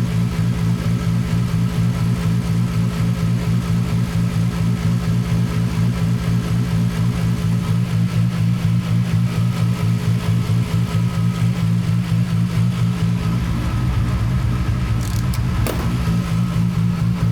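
Toyota Supra MK4's big-turbo 2JZ-GTE inline-six idling steadily with an even, rhythmic pulse. A deeper low rumble joins about three-quarters of the way through, and there is a single sharp click near the end.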